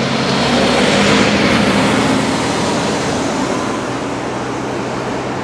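A road vehicle passing by: its noise swells about a second in, then fades slowly into steady traffic noise.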